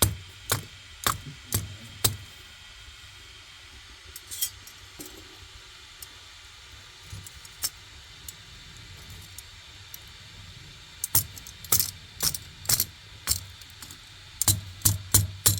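A series of sharp knocks, about two a second, that thin out to a few scattered ones for several seconds and then pick up again near the end.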